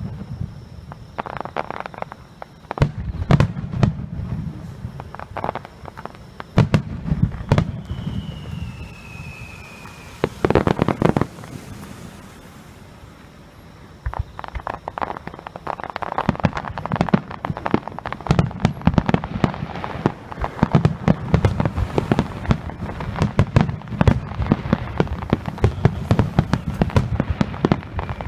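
Aerial fireworks display: rapid booms and dense crackling, with a short falling whistle about eight seconds in and a brief lull near the middle before the barrage picks up again.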